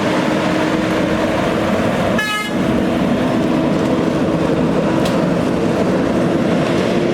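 Cummins ISX diesel engine of a dump truck running steadily with a droning hum. A brief high-pitched toot about two seconds in.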